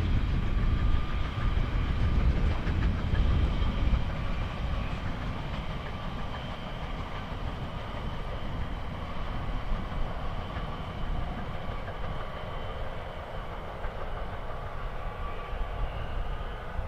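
A train rolling past on the rails: a steady rumble, loudest in the first few seconds and then even, with faint thin high tones from the wheels running through it.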